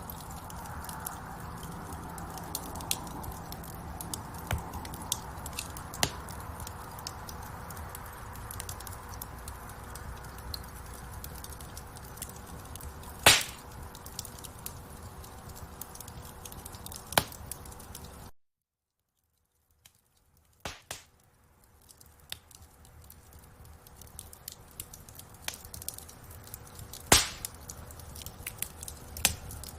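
Wood fire in a fireplace crackling, with a steady hiss of burning, scattered snaps and a few louder pops. The sound cuts out to silence for a moment about two-thirds of the way through, then fades back in.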